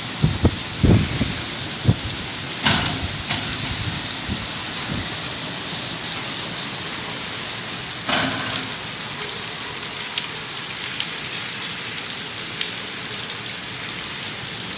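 Heavy rain pouring steadily, with a few low thumps in the first two seconds and a brief louder surge about eight seconds in.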